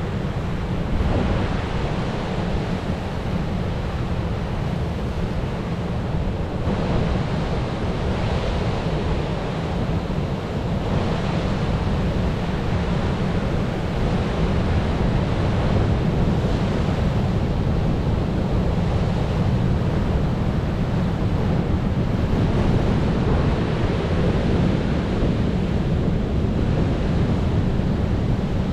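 Ocean waves surging and breaking on the shore in a continuous wash, swelling and easing every few seconds, with a steady low rumble of wind on the microphone underneath.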